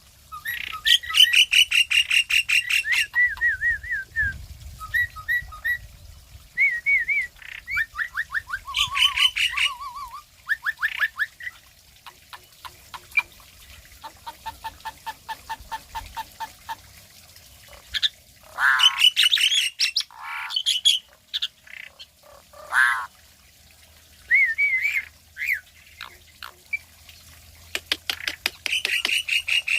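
Asian pied starling (jalak suren) singing a varied, jumbled song of whistled glides, fast chattering trills, runs of repeated ticking notes and harsh squawks, in bursts with short pauses between them.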